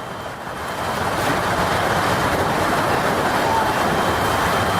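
A steady rush of a severe storm, wind and heavy rain, that swells about a second in and then holds.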